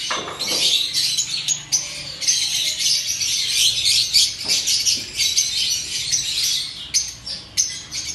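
A flock of caged lovebirds chattering and squawking, many shrill high calls overlapping without a break.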